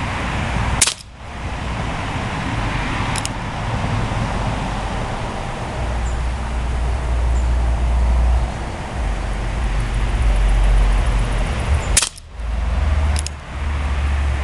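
Two shots from a Crosman CR357 .177 CO2 air revolver, a sharp pop about a second in and another near the end, each followed a second or so later by a fainter click. A steady low rumble runs underneath.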